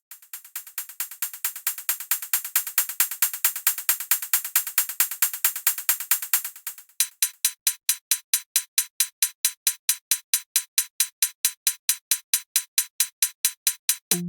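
Intro of a self-made FL Studio electronic track: programmed percussion ticking in a fast, even pattern of high, crisp ticks, fading in over the first couple of seconds. About seven seconds in, the pattern thins to sparser, sharper single ticks.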